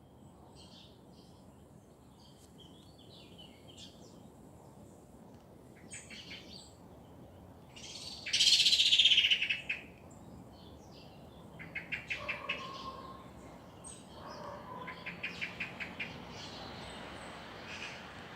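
Several wild birds singing and calling: scattered high chirps, one loud song about eight seconds in that falls in pitch, and quick rattling runs of notes around twelve and fifteen seconds.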